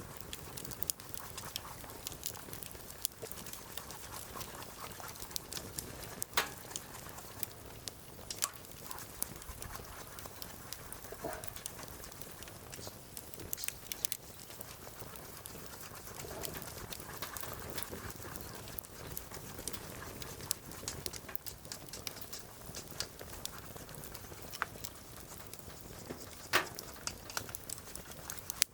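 Wood fire crackling, with irregular sharp pops and snaps over a soft steady hiss of burning. Two louder pops stand out, one about six seconds in and one near the end.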